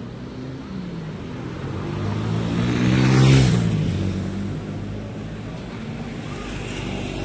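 A motor vehicle driving past close by. Its engine and tyre noise build up, peak about three seconds in, and fall away with a drop in pitch as it passes.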